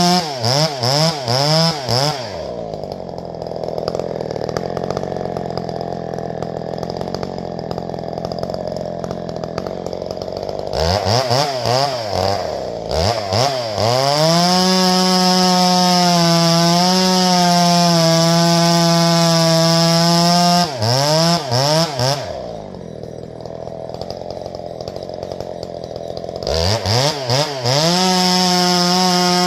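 Two-stroke chainsaw running at full throttle, plausibly bucking firewood. It drops to idle twice, with quick throttle blips each time it slows and each time it revs back up.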